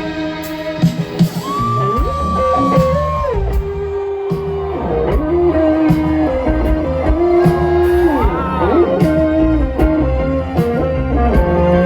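Live rock music: an electric guitar plays held notes that slide up and down over bass and drums.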